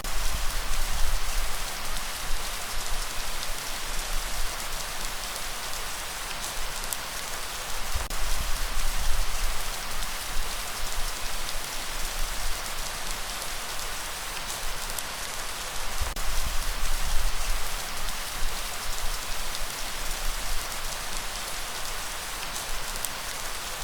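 Light rain falling steadily, with fine patter of individual drops, over a low rumble of breeze that swells and fades about every eight seconds.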